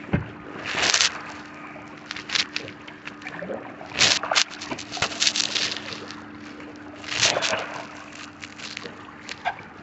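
Kayak paddle strokes dipping and splashing in lake water, in uneven bursts of splashing a second or more apart.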